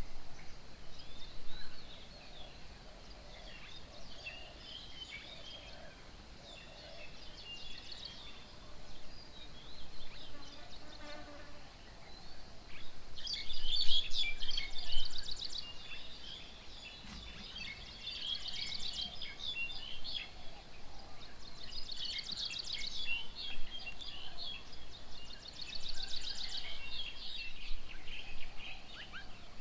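Several birds chirping and calling together. A fast rattling trill comes four times in the second half, roughly every four seconds.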